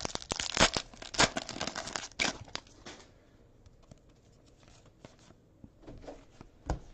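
Plastic-foil trading-card pack wrapper crinkling and tearing for about three seconds, then faint clicks of cards being handled and a short knock near the end.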